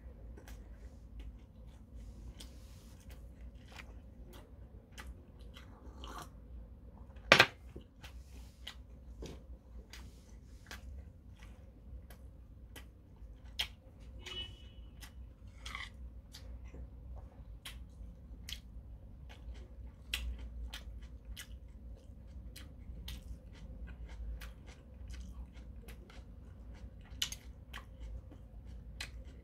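Close-miked chewing: a man eating with many small wet mouth clicks and smacks throughout. About seven seconds in comes one much louder sharp click.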